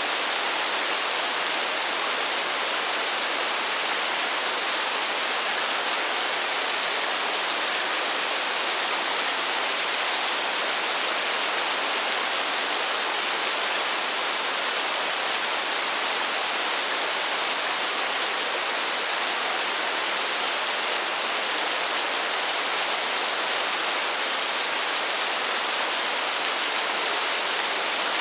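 Steady heavy rain falling in a forest, an even, unbroken hiss with no separate drops standing out and no change in level.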